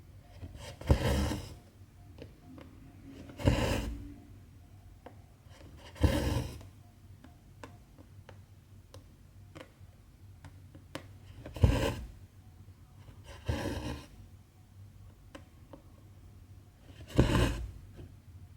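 Two-strand cotton embroidery thread pulled through 14-count cross-stitch fabric: six short swishes a few seconds apart, each about half a second long, with faint ticks in between.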